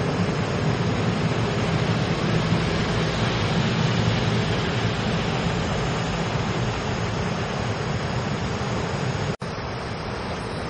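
Taiwan Railways EMU1200 electric express train passing at speed: a steady heavy rumble and rush of wheels on rail, loudest in the first half. A sudden break near the end gives way to a quieter, steady rumble as the next train, a push-pull Tze-Chiang express, approaches.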